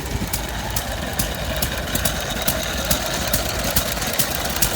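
Vintage stationary engine running at a slow, even beat, with sharp ticks about two to three times a second over a low steady rumble.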